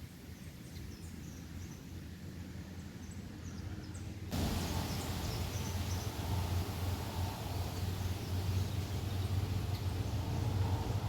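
Outdoor ambience: a steady low rumble with scattered small bird chirps. About four seconds in it jumps abruptly to a louder, fuller hiss.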